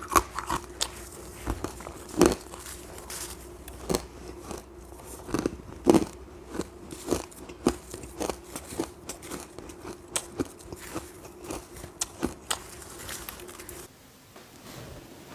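A person biting and chewing ice, a quick irregular run of sharp crunches that stops about two seconds before the end.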